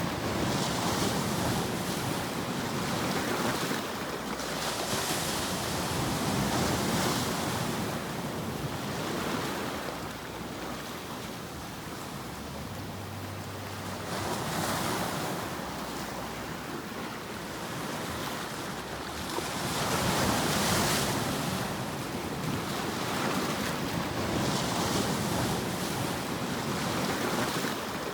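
White-noise sleep track: a steady rushing hiss, surf-like, that swells and eases every four to six seconds.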